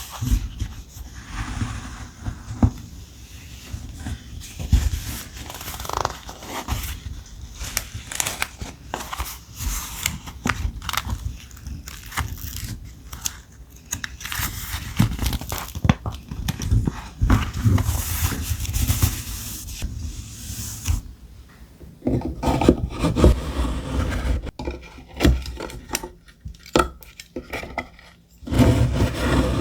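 Thick vintage ephemera paper being handled and rustled, with many small taps and clicks. About two-thirds of the way in it turns to a lower, denser rubbing.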